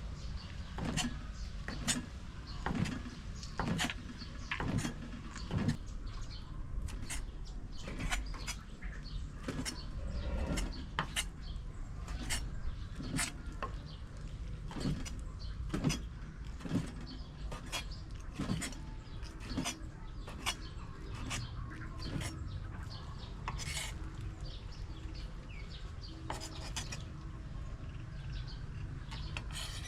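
Kitchen utensils clinking and knocking against cookware in an irregular run of sharp taps, about one or two a second, over a low steady rumble.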